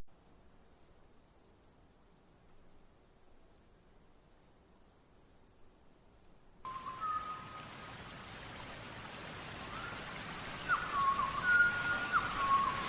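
Nature ambience. At first there is very faint, fast insect-like chirping over a thin steady high tone. About six and a half seconds in, a steady rain-like hiss comes up, and short whistled bird notes sound over it, most of them near the end.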